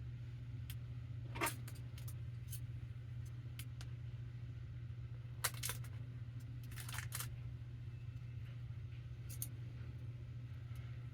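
Hands handling tape and a book: a few short clicks and rustles, spread out, over a steady low hum.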